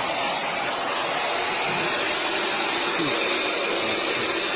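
Loud, steady rushing hiss, like gas or air escaping under pressure, with no change in level.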